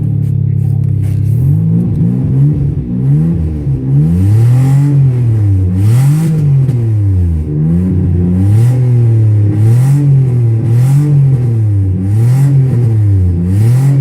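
1999 Nissan Maxima's 3.0-litre V6 being blipped over and over, the engine speed rising and falling about ten times, roughly once every second and a half. It is running rough just after a hard start, misfiring badly.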